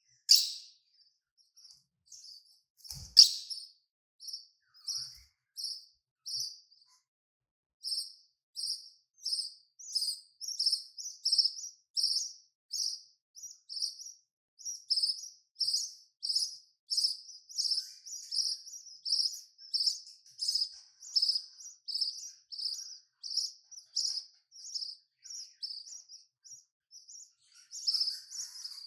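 Budgerigars chirping: short high cheeps repeated in an even series of about two a second, getting steadier and louder after the first several seconds. Two louder, sharp sounds come in the first few seconds.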